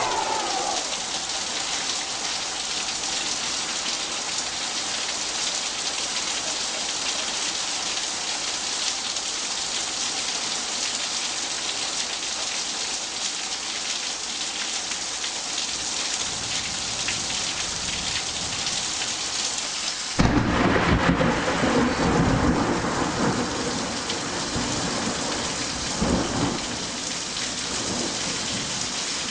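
Steady heavy rain hissing, with a sharp thunderclap about two-thirds of the way through that rolls off in rumbles for a few seconds, and a shorter rumble of thunder soon after.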